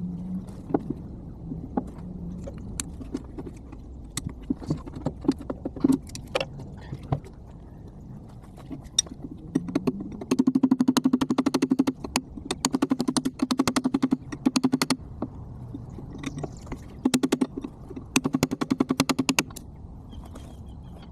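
Hammer blows on steel, sped up so the strikes come in rapid runs: scattered knocks at first, then three long runs of quick, evenly spaced strikes over a low hum. Typical of driving a chisel against the parts of a hydraulic cylinder.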